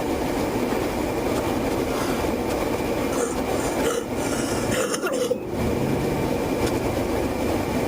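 Steady rushing cabin noise inside a police patrol car, with the air conditioning blowing, and a few brief faint blips around the middle.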